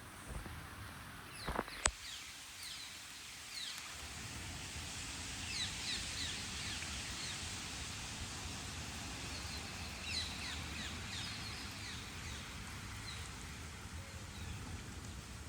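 Steady rain hiss with many birds chirping over it in short, quick falling calls. There are a few sharp clicks in the first two seconds.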